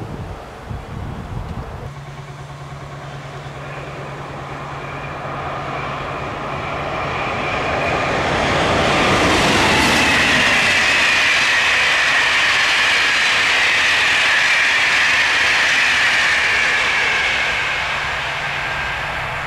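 A train passing close by: its rail noise builds over several seconds to a long steady peak, with a whine that falls in pitch as it goes by, then eases a little near the end.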